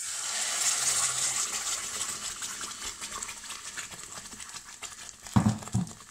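Blended onion-tomato-cashew masala paste poured into hot melted butter in a metal kadai: a sudden loud sizzle with fine crackling that fades over a few seconds. Two loud knocks come near the end.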